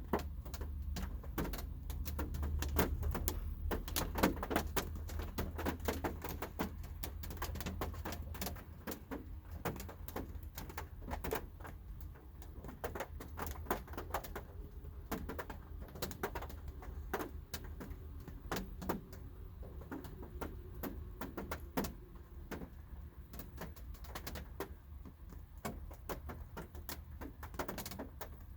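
Light rain heard from inside a car: scattered raindrops tapping irregularly on the roof and glass, over a low steady rumble.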